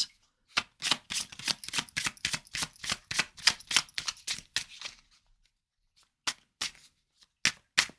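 Tarot cards being shuffled by hand: a quick run of short card clicks, about four a second, for the first few seconds, then a pause and a few scattered clicks near the end.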